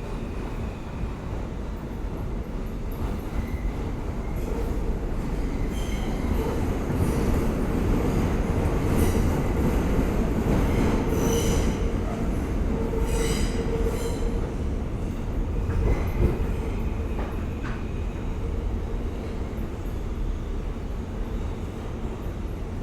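Inside an R160A-2 subway car running between stations: the steady rumble of wheels on rail and running gear, swelling through the middle with a steady motor tone. High wheel squeal cuts in twice near the middle.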